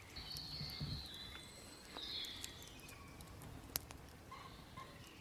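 Woodland ambience with birds calling, short high chirps and song phrases, and scattered faint clicks, one sharper click about three-quarters of the way through.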